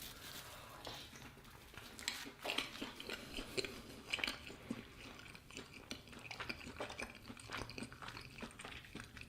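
A person chewing a mouthful of cheese-filled bread close to the microphone, with faint, irregular soft mouth clicks and smacks.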